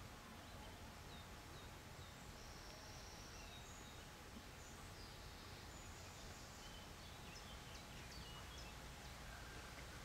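Faint wild birds calling and singing: short high chirps and brief whistles scattered through, over a steady low background rumble.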